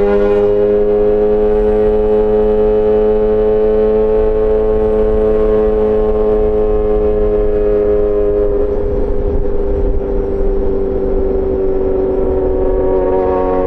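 Yamaha XJ6 S inline-four engine through an SC-Project exhaust, running at a near-steady mid-range rpm while riding. The pitch rises slightly and then eases back, and the note turns rougher about eight seconds in.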